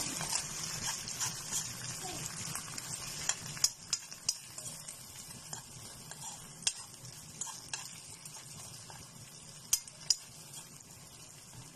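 Corned beef, onion and egg frying in a pan with a steady sizzle while a spatula stirs and scrapes through it. A few sharp taps of the spatula against the pan stand out, the loudest about four seconds in and two more near the end.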